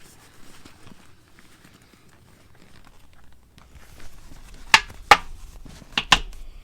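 Rustling of a fabric rain cover being pulled over a gear bag, then four sharp clicks in two quick pairs near the end.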